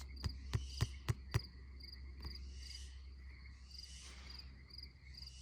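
Crickets chirping in an even, steady rhythm over a low hum, with a quick run of sharp clicks in the first second and a half.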